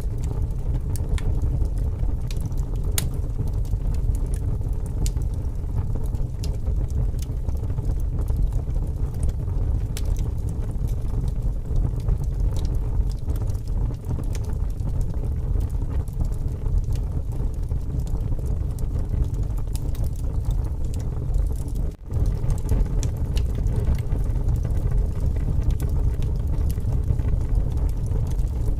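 Wood fire burning, with scattered sharp crackles and pops over a steady low rumble of strong wind.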